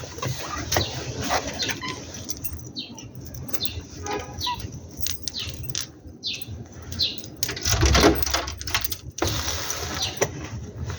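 Birds chirping in short falling calls, about one a second through the middle of the stretch, over scattered clicks and rustling, with a louder stretch of rustling about eight seconds in.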